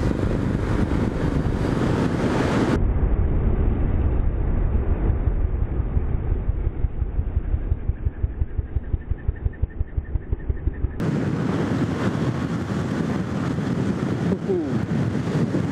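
Harley-Davidson Street 750's V-twin engine running on the move, with wind buffeting the microphone. Near the middle, the exhaust note pulses in a quick, even beat for a few seconds.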